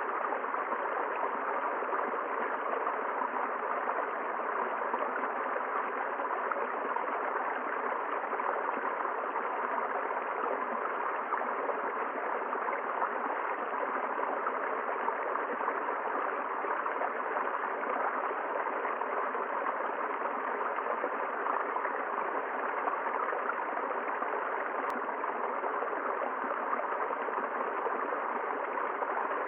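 River water flowing steadily over rocks, an even rushing with a light gurgle.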